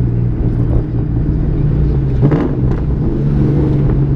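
2003 Mustang SVT Cobra's supercharged 4.6-litre V8 running under light throttle, heard from inside the cabin. About two seconds in the revs rise briefly, and a few short, sharp exhaust pops follow.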